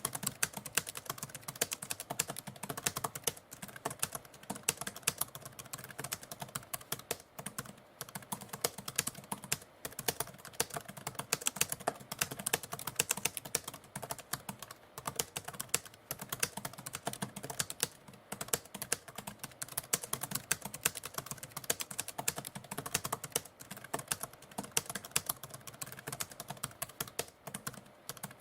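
Typewriter typing: a fast, irregular run of key strikes with a few brief pauses.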